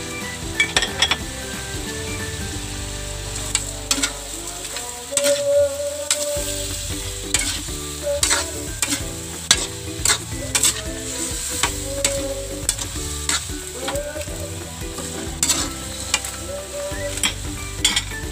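Pork pieces sizzling in oil and sauce in a metal wok while being stirred. A utensil scrapes through the meat and clicks against the pan many times at irregular intervals.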